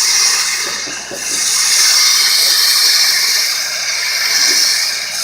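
Dustless blasting nozzle spraying a wet mix of water and crushed-glass media at a truck body to strip its paint: a loud, steady hiss that eases briefly about a second in.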